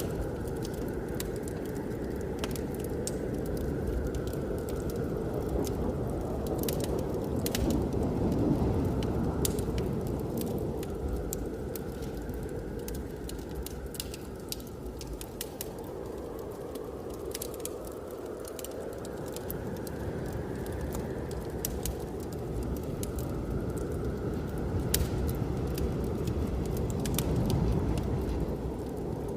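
Wood fire crackling with scattered sharp pops, over the steady rush of blizzard wind that swells and eases in slow gusts, with a faint rising and falling whistle.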